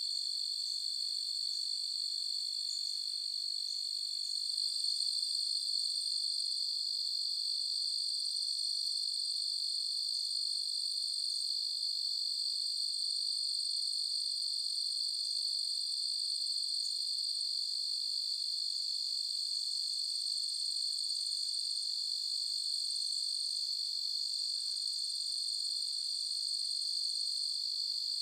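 A chorus of crickets trilling in a steady, unbroken high-pitched drone, with faint short chirps from other insects scattered over it. The drone grows slightly louder about four and a half seconds in.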